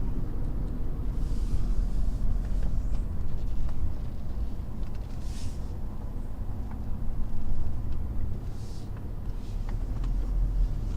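Low, steady rumble of a car rolling slowly forward, heard from inside the cabin, with a few brief faint hisses.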